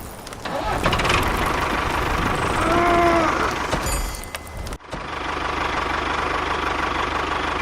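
A small engine running, with a brief rising-and-falling pitched sound about three seconds in. A little after halfway the sound breaks off abruptly and gives way to a steady engine hum with a fast low pulse.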